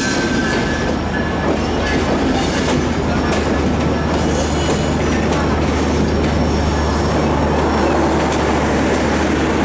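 Sundarban Express passenger train running by, with a steady, loud low rumble and its wheels clattering over the rail joints.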